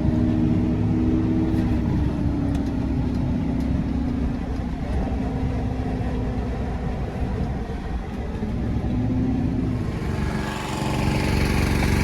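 Engine of heavy farm machinery running steadily. Its pitch dips and recovers briefly about a second and a half in and again near nine seconds, and a brighter, noisier machine sound joins near the end.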